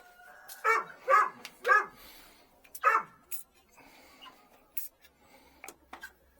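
A dog barking four times in quick succession, three close together and one more a second later, with a few sharp clicks between.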